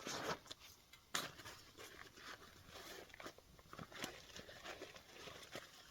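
Faint scattered small clicks and rustling of things being handled, with one sharper click about a second in.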